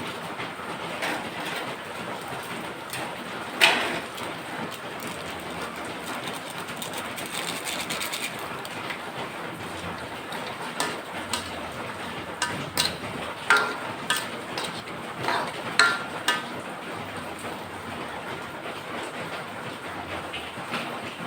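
Steady rain hiss, with a sharp knock about four seconds in and a run of short clinks and knocks in the second half, some ringing briefly.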